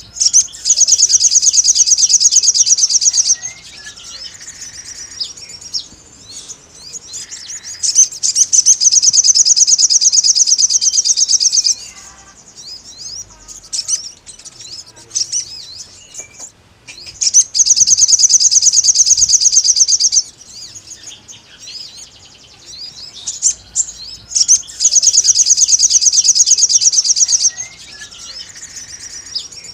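Sogon bird singing a rival-calling song: four long, loud, rapid high-pitched trills of about three seconds each, with softer scattered chirps between them.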